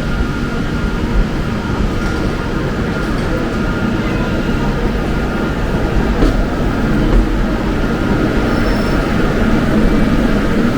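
Inside the passenger saloon of a Class 350 Desiro electric multiple unit on the move: steady rumble of wheels on the track with a faint steady whine above it and a few light ticks.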